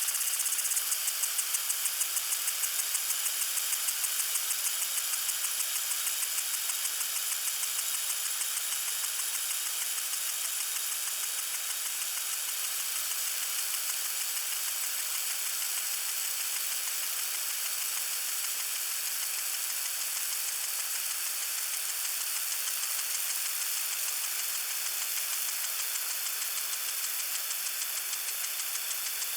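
Water sprinkler spraying: a steady high hiss, with a rapid even ticking for the first several seconds that then fades into the hiss.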